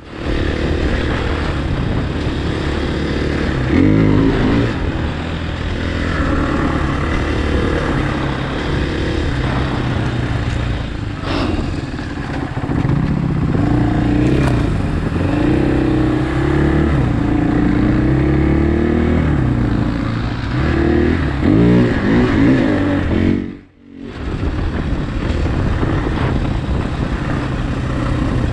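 Off-road motorcycle engine under way on a trail, the revs rising and falling as the rider works the throttle. The sound cuts out for a moment near the end, then the engine picks up again.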